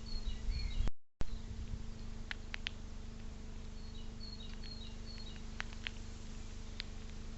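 Small songbird chirping in quick runs of short, high notes, with a few sharp clicks in between, over a steady electrical hum from the recording device. The sound drops out completely for a moment about a second in.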